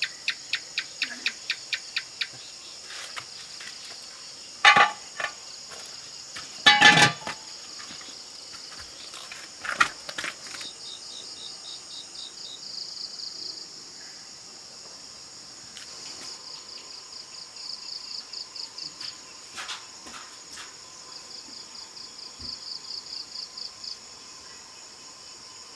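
Insect chorus: a steady high buzz with repeated pulsed chirp trains from crickets. A quick run of about ten sharp clicks opens it, and two louder short sounds come around five and seven seconds in, with a knock near ten seconds.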